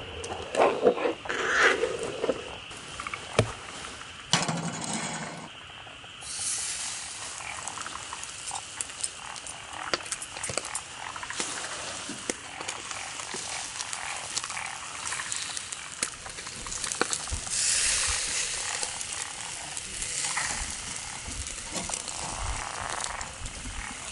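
Rain falling on a tarp and tent: a steady patter of drops with scattered louder hits, heavier for a couple of seconds past the middle.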